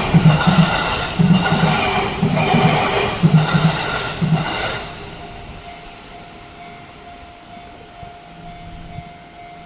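JR Tokaido Main Line local electric train passing a level crossing at speed, its wheels knocking over the rail joints in paired clacks about once a second. The clatter stops about five seconds in as the last car clears, leaving a faint steady tone.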